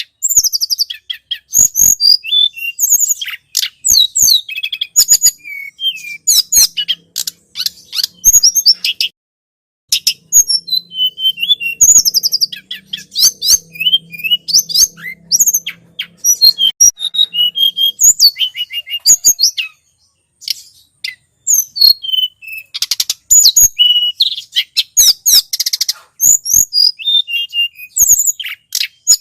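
Recorded song of the tledekan gunung, played as a bird lure: rapid, high-pitched chirps and quick sweeping notes in dense bursts, broken by two short pauses.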